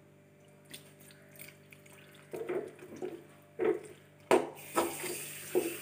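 Water being poured into a pan of fried chicken and masala, after a few short knocks; a steady hiss starts about four seconds in.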